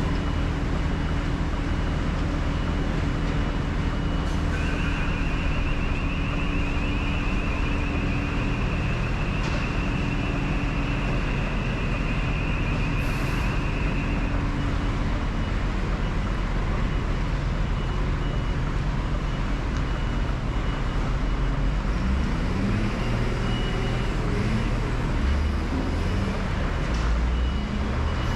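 A lorry's diesel engine running steadily, with a reversing alarm beeping rapidly for about ten seconds near the start. Toward the end the engine note rises and falls.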